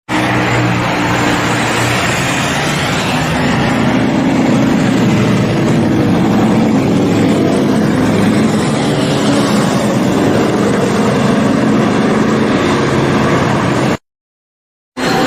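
Sportbike engine running at a steady high speed, its pitch rising a little and then holding, under heavy wind and road noise. It cuts off suddenly near the end.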